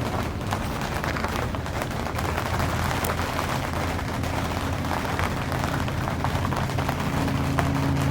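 Steady rain falling, with a dense patter of many small drop ticks. A faint low steady hum joins about halfway through.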